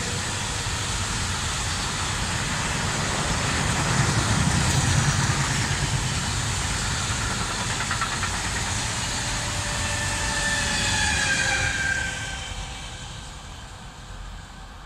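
Freight train of grain hopper wagons passing at speed, with a steady rumble and clatter of wheels on rail. About eleven seconds in, the electric locomotive at the rear passes with a falling whine, and then the sound fades as the train draws away.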